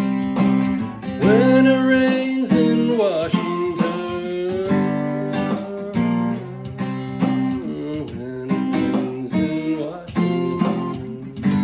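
Music: strummed acoustic guitar playing the instrumental close of a song, with a gliding melody line about a second in.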